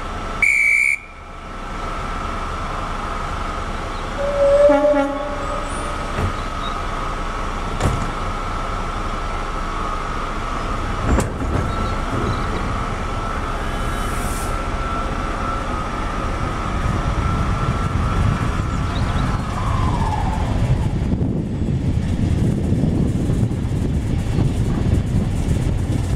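Guard's whistle blown briefly to start the train, then a short toot from the locomotive a few seconds later as the train departs. A steady whine runs underneath and slides down in pitch about twenty seconds in, while the low running noise of the train on the rails builds over the last few seconds.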